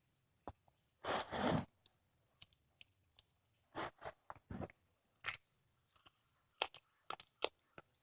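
A cat chewing and crunching on a squirrel it is eating: irregular crunches and bites with pauses between them. There is a longer, louder spell of crunching about a second in, and a quick run of sharp crunches near the end.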